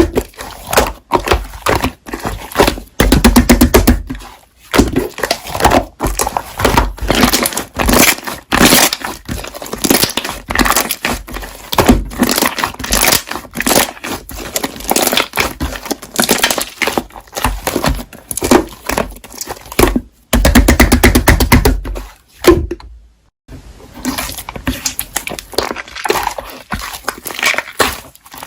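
Slime being squeezed and pressed by hand, giving a fast, irregular run of crackling pops and clicks, with brief pauses about twenty and twenty-three seconds in.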